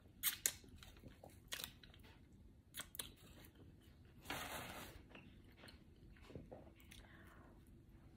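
Close-up chewing of an Egg McMuffin: quiet, wet mouth clicks and smacks, with a short hiss about four seconds in.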